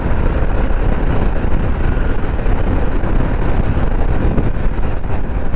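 Motorcycle riding at a steady cruising speed: wind rushing over the microphone, together with engine and road noise, a steady low-heavy rush with no distinct engine note.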